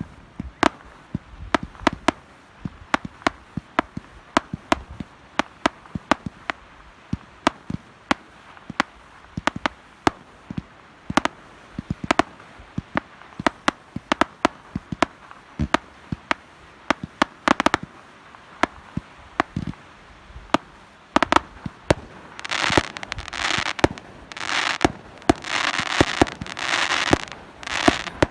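Fireworks display: a continuing volley of sharp bangs from bursting shells, roughly two a second. Near the end come several longer, dense bursts lasting about a second each, from crackling shells.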